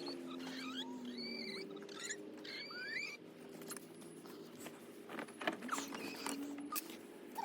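Birds giving short, squeaky rising and falling chirps in the first few seconds, over a steady low hum, with a few sharp clicks and taps near the end.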